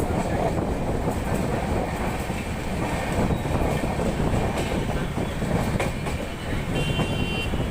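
Passenger express train running steadily, heard from on board: a constant rumble, with wheels clacking over rail joints.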